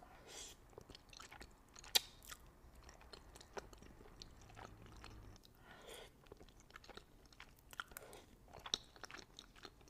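Close-miked chewing and mouth sounds of a person eating spicy instant noodles. The sound is faint, broken by scattered sharp clicks, the loudest about two seconds in.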